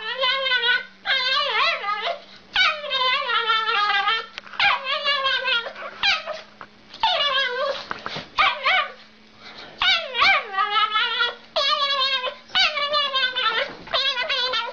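A dog whining and yowling in more than a dozen short, wavering, sing-song calls, one after another with brief pauses, over a faint steady hum.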